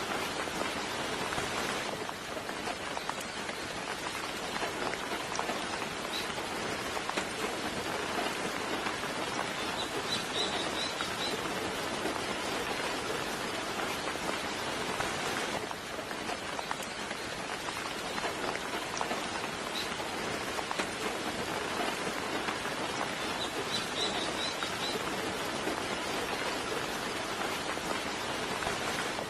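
Steady soft rain falling, an even hiss of drops. A bird gives brief high chirps twice, about a third of the way in and again near the end.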